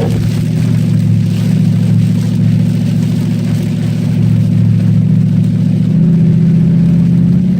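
Cadillac STS-V's supercharged 4.4-litre V8 running hard at fairly steady revs around the track, its pitch lifting slightly a couple of times.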